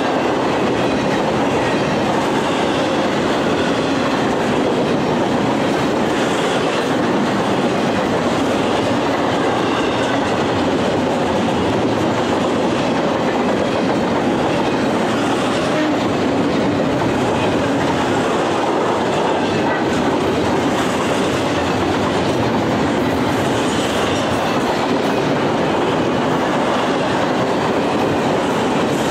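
Norfolk Southern intermodal freight train's container well cars rolling past at steady speed: a continuous, even rumble of steel wheels running over the rails.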